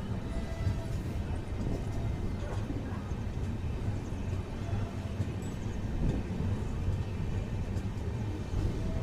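Steady low rumble of a passenger train coach running along the track, heard from on board, with a few faint clicks.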